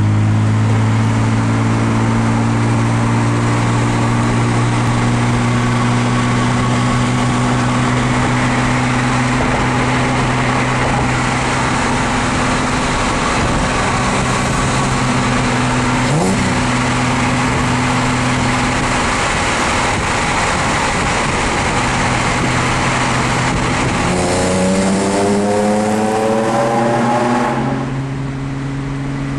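Car engine and exhaust running at a steady cruise with road noise, then rising in pitch as it accelerates from about 24 seconds in, easing off shortly before the end.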